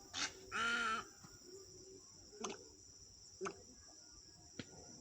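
Heron calling: one harsh pitched call a little over half a second in, then three short sharp notes spaced about a second apart, over a steady high insect trill.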